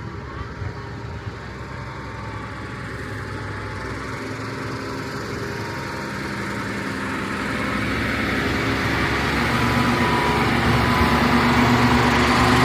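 An engine running and growing steadily louder, as a motor vehicle draws near.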